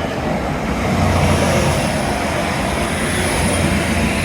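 Diesel passenger train passing close by on the seaside railway line: a steady rumble of engine and wheels with a deep drone and a faint high whine.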